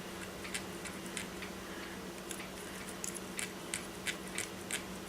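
Small irregular clicks and taps of a hand tool and screw against a metal motor mount under an RC crawler chassis, as a screw is fed in toward its hole. A steady low hum runs underneath.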